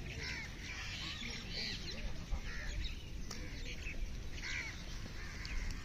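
Birds calling, short chirps scattered throughout over a steady low rumble.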